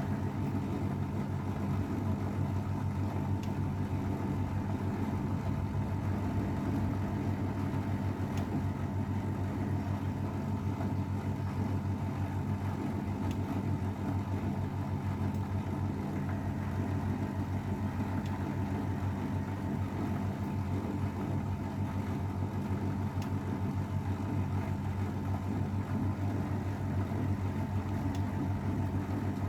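AEG Öko_Lavamat 693 washing machine running with a steady, unbroken motor hum.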